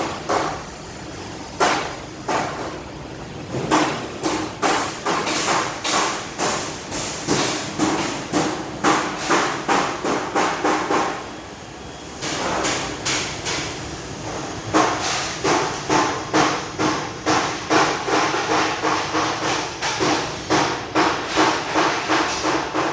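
A hammer striking metal repeatedly, about two to three blows a second, with a short pause about halfway through. The struck metal rings faintly under the blows.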